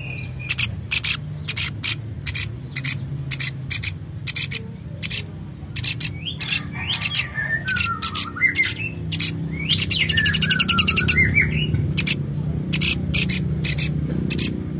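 A bird chirping and calling: many short sharp chirps, a few sweeping calls, and a fast trill about ten seconds in.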